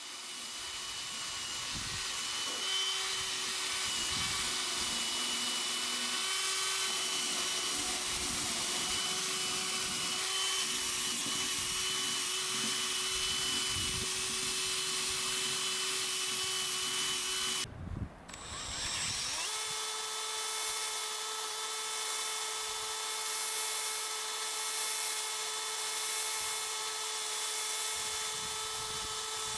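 An electric power tool running at a steady speed, a motor whine with a hiss over it, as rust is worked off a cast iron nail puller. About two-thirds of the way through it stops briefly, then runs on at a different pitch.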